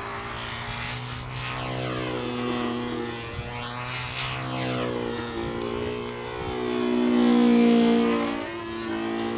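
Small model-aircraft engine with propeller on a control-line model in flight, running continuously at high revs, its pitch and loudness rising and falling repeatedly as the model circles the pilot.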